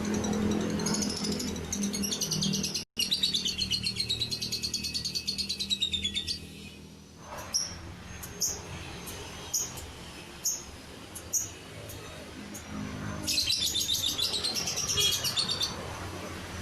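Lovebird singing: a long, fast-pulsed chattering trill, then a string of single short chirps, then another long trill near the end. There is a brief break in the sound a few seconds in.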